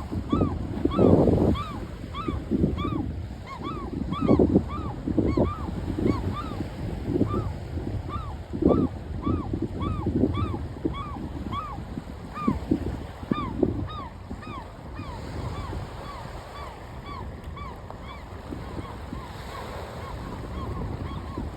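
A bird calling over and over, one short rising-and-falling call about twice a second, over a low rush of wind and surf that comes in gusts, strongest about a second in.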